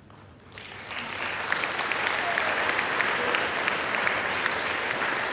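Audience applauding, a dense clatter of many hands clapping that starts about half a second in and swells to full strength within a second, then holds steady.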